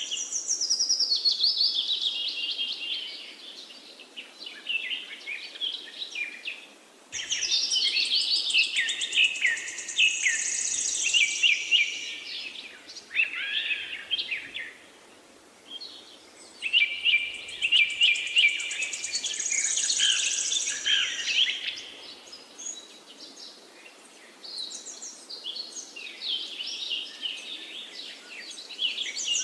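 A songbird singing in long phrases of quick, varied chirps and trills, with short pauses between the phrases.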